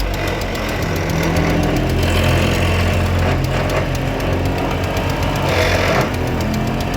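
A heavy engine running, its pitch rising and falling as it works.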